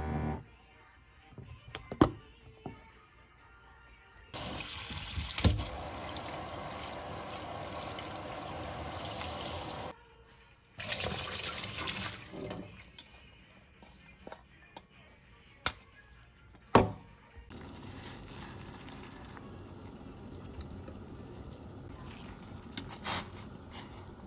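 Water tap running into a sink for about six seconds, then again briefly, with a few sharp knocks and clinks of kitchenware in between.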